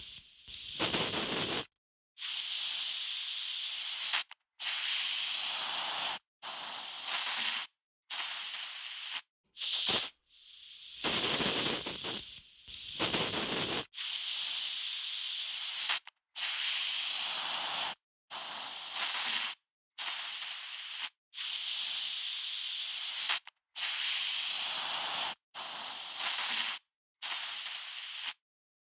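Aerosol spray can spraying in repeated short bursts of one to two seconds each, with a brief silence between bursts.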